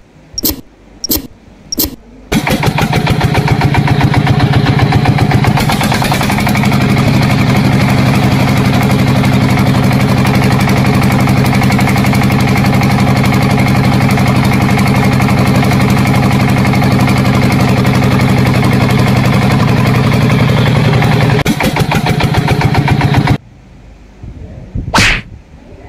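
Small engine of a homemade mini tractor: a few short bursts as it is started, then it catches about two seconds in and runs steadily and loudly for about twenty seconds before stopping abruptly. A brief sharp sound comes near the end.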